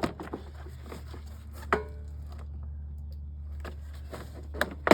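Lawnmower engine top cover being worked loose by hand: a sharp click with a brief ring about two seconds in, and a few knocks near the end.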